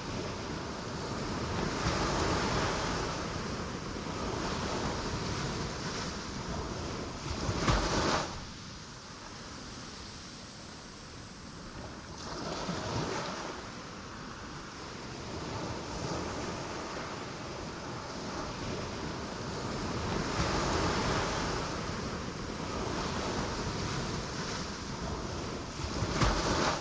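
Ocean waves breaking on rocks, a continuous surf roar that swells and ebbs, with two sharp loud crashes about eight seconds in and near the end.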